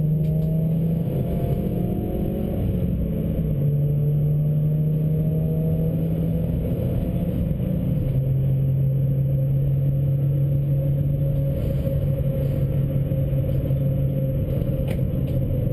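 A stage 2 tuned Suzuki Swift's engine pulling hard at speed, heard from inside the cabin over road and wind noise. Its pitch climbs over the first couple of seconds, holds, and steps down around eight seconds in.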